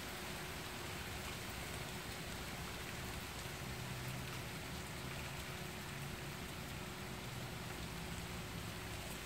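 Steady rain falling during a thunderstorm, an even hiss.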